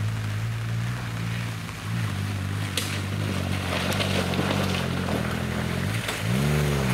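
Off-road 4x4's engine running steadily, with mud and water splashing in the middle, then one quick rev that rises and falls near the end.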